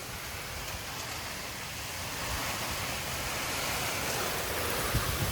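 Heavy thunderstorm rain pouring down, a loud, steady hiss that slowly builds. There is a low thud near the end, like a gust buffeting the microphone.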